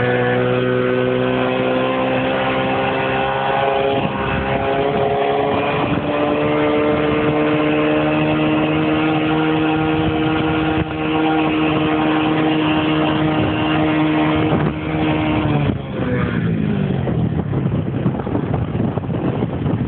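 Stock single-cylinder four-stroke engine of a Honda XRM RS underbone motorcycle, freshly broken in, running loud at fairly steady revs with the pitch drifting slightly. About sixteen seconds in the revs fall away quickly, leaving a rushing noise under a lower engine note.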